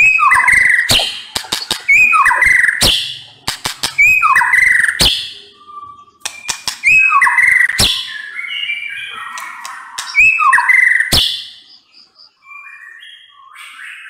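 White-rumped shama singing loud repeated phrases, each a burst of sharp clicking notes followed by falling whistles, about every one and a half to two seconds. The song turns softer for the last couple of seconds.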